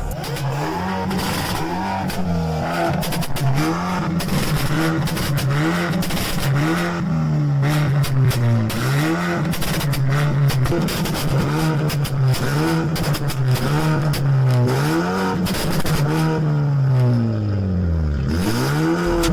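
A car engine revving over and over, its pitch climbing and dropping every second or two, with a deeper dip and climb near the end.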